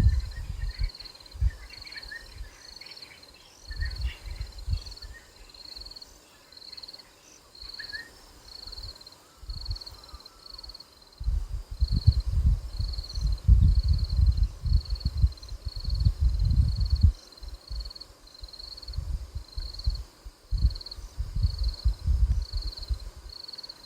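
An insect chirping in a steady rhythm, a short high pulse about twice a second, in a natural bush soundscape. Faint bird calls come in the first few seconds, and a low rumble comes and goes in gusts, loudest around the middle.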